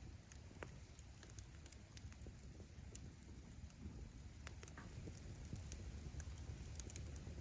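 Wood campfire burning: faint scattered crackles and small pops of firewood over a low, steady rumble.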